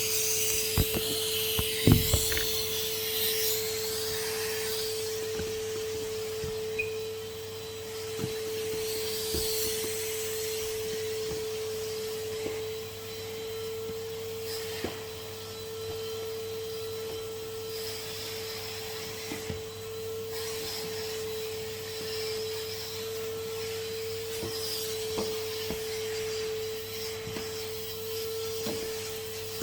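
Henry HVR200 620 W vacuum cleaner running with a steady motor whine and the hiss of suction, with scattered sharp knocks, the loudest about two seconds in.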